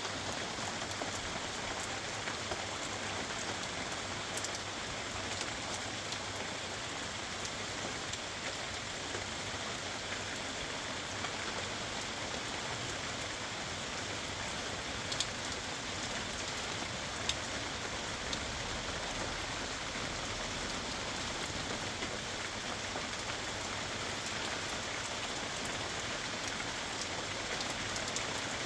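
Steady rain from a rainstorm, an even hiss of falling rain with scattered drops ticking on surfaces. A couple of louder single drips stand out about halfway through.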